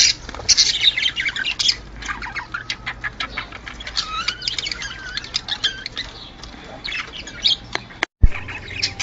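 Budgerigars chirping and warbling, with dense quick chirps and squawks. About eight seconds in the sound drops out briefly and there is a sharp click.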